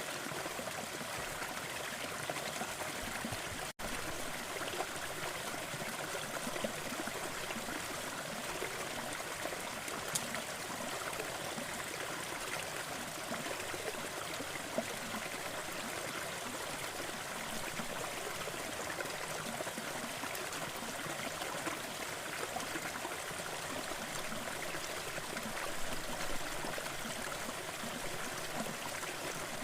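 Crackling fireplace mixed with steady brown noise: a dense, even rushing hiss with a few small pops scattered through it. It cuts out for an instant about four seconds in.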